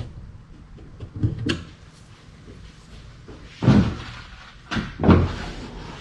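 Knocks and thumps from handling hatch hardware on the wooden kayak deck: a faint knock about one and a half seconds in, then two louder thumps past the middle.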